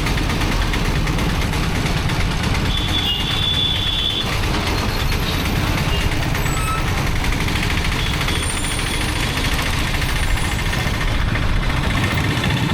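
Motorcycle ride through town traffic: steady engine and road noise with wind buffeting the microphone, and a brief high-pitched tone about three seconds in.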